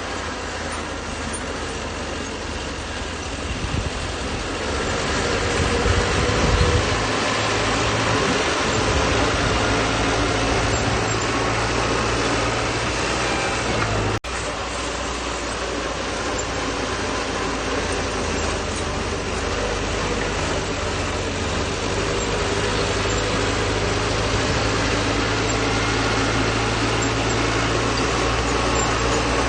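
Bulldozer's diesel engine running steadily while working, growing louder about five seconds in as it takes on load. The sound drops out for an instant about fourteen seconds in, then carries on steadily.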